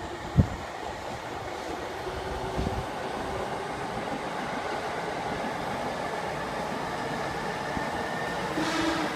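JR East E233-series electric commuter train running on the far tracks, a steady noise of wheels on rails. A single sharp thump about half a second in.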